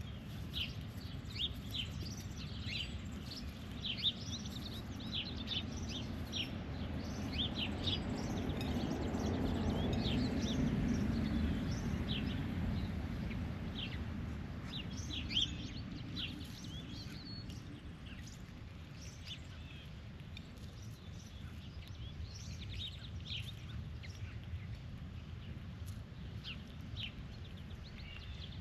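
Small birds chirping over and over, several short calls a second, over a low outdoor rumble that swells and fades again around the middle.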